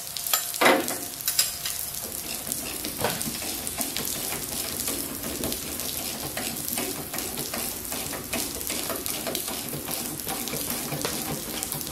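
Steady hiss of rain, with a ratchet wrench clicking in short runs as the engine-mount bolts' all-metal lock nuts are snugged up, and a few sharper knocks of the wrench near the start.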